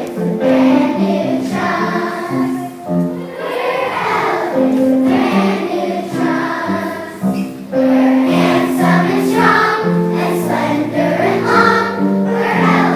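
A choir singing a song with held notes, as music.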